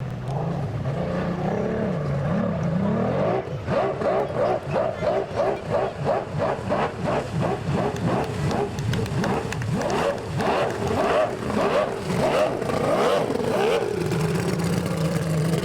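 Racing powerboat's outboard engine running hard, its note rising near the start and then pulsing rapidly, about two to three times a second, before steadying near the end.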